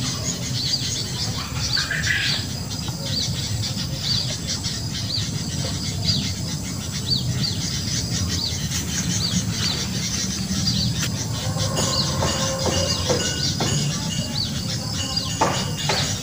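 A bird chirping over and over, about twice a second, over a steady low rumble, with a few sharp clicks near the end.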